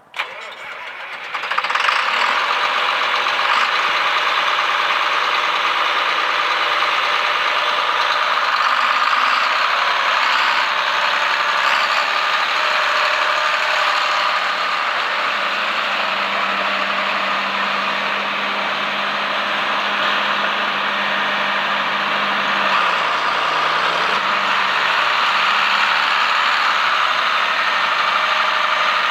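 A John Deere 4650 tractor's six-cylinder turbo diesel engine starting up, then running steadily.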